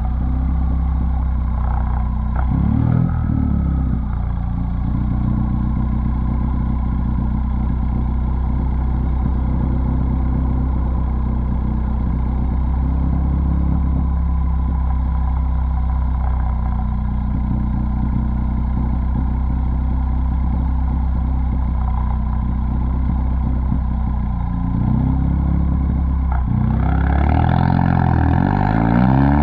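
Straight-piped 2017 Ford Focus ST's 2.0-litre turbo four-cylinder exhaust running steadily at a low, even speed, with a brief rev about three seconds in. Near the end it revs up, the pitch rising as the engine speeds up.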